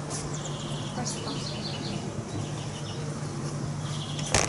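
Small birds chirping in short, rapid trills, over a steady low hum, with one sharp knock near the end.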